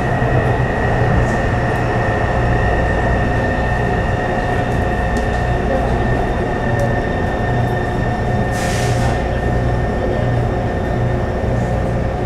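Taipei Metro C301 train with its refitted propulsion running between stations in the tunnel: a steady motor whine over a constant low wheel rumble. A brief hiss comes about eight and a half seconds in.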